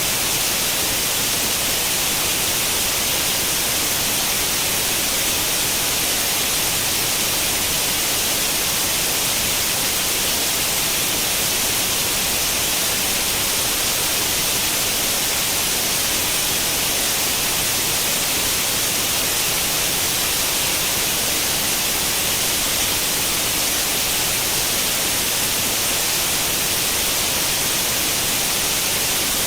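Steady, unchanging white noise: the hiss of an old tube television's static with no channel tuned in, weighted toward the high end.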